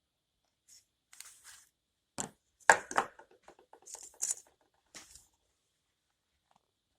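Small objects handled on a work table: light rustling, then a few sharp clicks and knocks about two to three seconds in, with scattered lighter clicks after.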